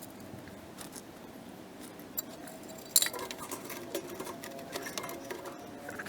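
Clicks and clinks of tools and small metal parts being handled, with one sharp click about three seconds in followed by several lighter ones.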